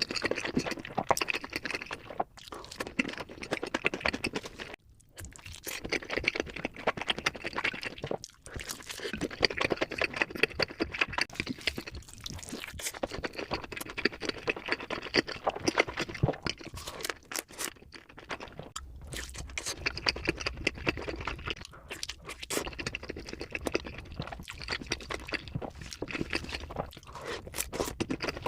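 Close-miked chewing of pizza: a dense run of crunching and wet mouth clicks, with a few short pauses.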